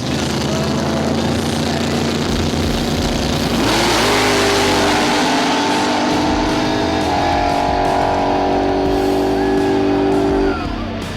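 Drag-racing cars' engines held at high revs, climbing in pitch in steps, over background music; the engine sound cuts off suddenly near the end.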